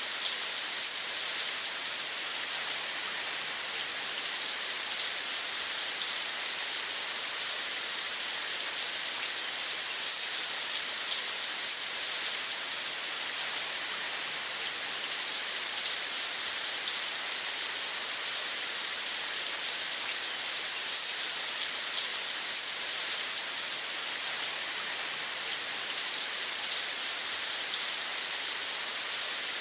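Steady rain falling: an even, unbroken hiss of many fine drops, brightest in the upper range, with no pauses or swells.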